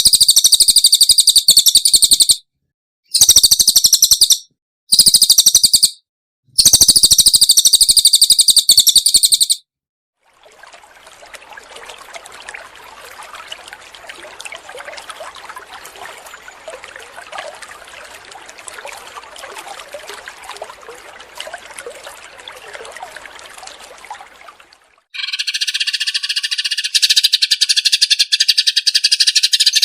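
Recorded songbird song, several birds in turn: four loud bursts of very high, rapid trilling, then a long stretch of quieter, dense crackling chatter, and near the end a different bird's loud, continuous trilling.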